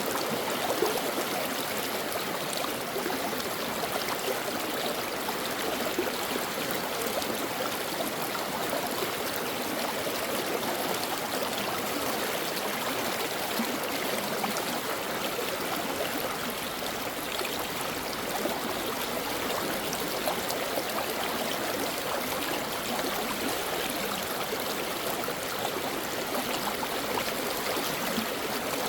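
Stream water flowing and babbling over rocks, a steady, unbroken rush with small trickles and gurgles.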